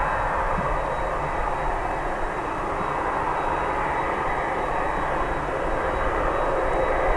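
Jet engines of an ANA Boeing 767-381 airliner running steadily: an even rush of engine noise with a faint thin whine on top.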